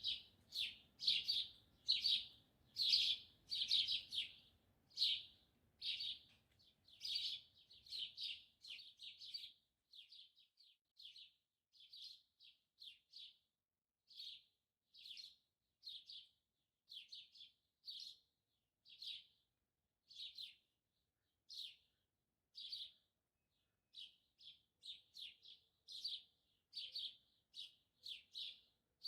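Small birds chirping: a continual series of short, high chirps, one or two a second. The chirps are busier and louder in the first third, with a faint low rumble underneath that fades out about nine seconds in.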